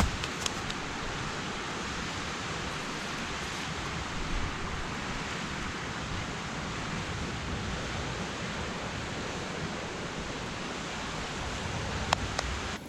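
Steady rush of flowing water, an even, unbroken hiss, with a few faint clicks just after the start and a sharper click near the end.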